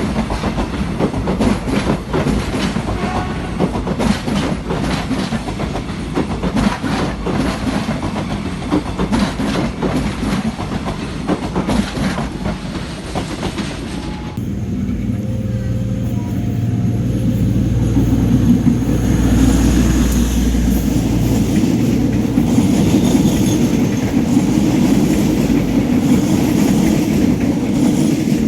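Train passing, its wheels clattering rhythmically over the rail joints. About halfway through the sound changes abruptly to a steadier low rumble.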